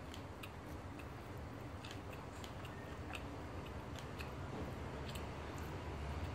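Someone chewing roti prata, with soft, irregular mouth clicks and smacks every half second or so. A steady low hum runs underneath.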